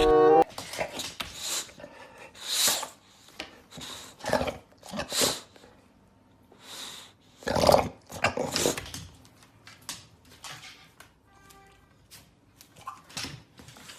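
French bulldog puppy grunting and growling in short, irregular bursts with pauses between them.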